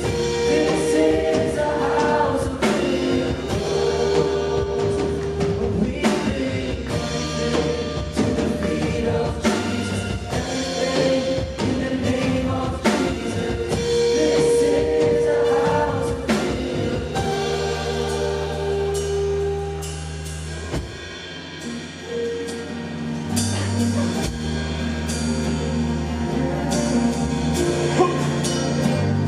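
Live church worship band playing gospel music with voices singing over keyboard, bass and drum kit; the sound thins out briefly a little past two-thirds through.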